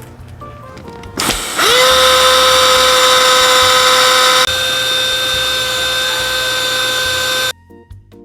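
Air mattress's built-in electric pump starting up about a second in, whining up to speed and running steadily at a high pitch, then cutting off suddenly near the end; the pump is letting the air out of the mat.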